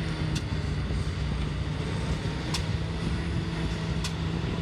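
Heavy diesel truck engines running with a steady low drone as a tow truck winches a semi out of soft sand. Three short sharp clicks sound about every one and a half seconds.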